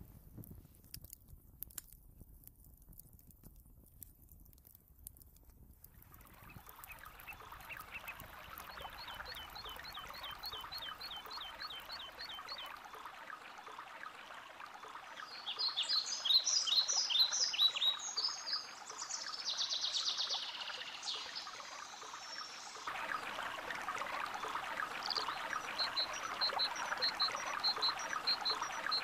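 Faint crackling of a wood fire, then after about six seconds a steady hiss of outdoor ambience with birds chirping and singing over it. The loudest calls come about halfway through, and a short high chirp repeats over and over near the end.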